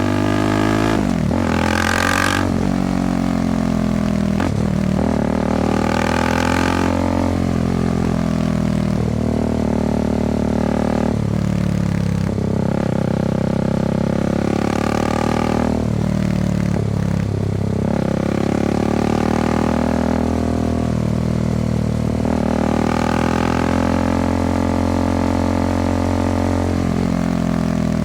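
Motorcycle engine running under way, its pitch climbing and dropping back several times as the rider accelerates and eases off.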